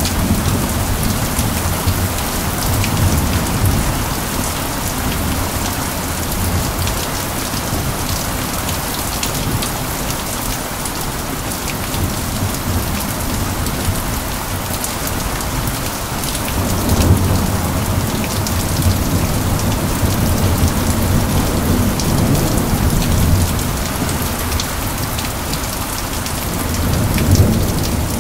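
Steady rain falling, with fine drop ticks throughout and low rumbles of distant thunder swelling and fading, at the start, from about 17 seconds in, and again near the end.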